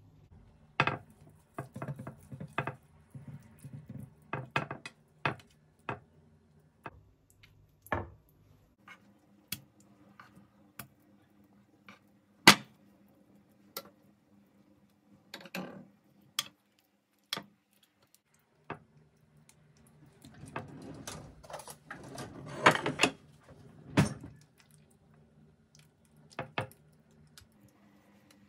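Kitchen dishes and utensils being handled: scattered sharp clinks and knocks as things are set down, with a busier stretch of clattering about two-thirds of the way through, over a faint steady hum.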